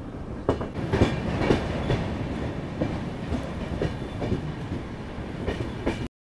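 Passenger train's coaches running on the track, a steady rumble with irregular sharp clattering knocks of the wheels. The sound cuts off suddenly near the end.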